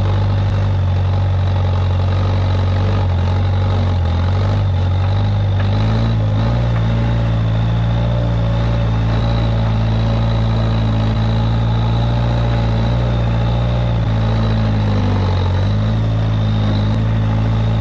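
Case 580G backhoe loader's diesel engine running steadily, its pitch shifting slightly a couple of times as the load changes.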